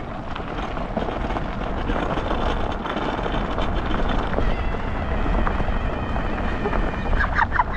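Off-road luge cart rolling fast down a rough dirt track: a steady rumble and rattle from the wheels over the gravel, with scattered clicks and wind buffeting the microphone.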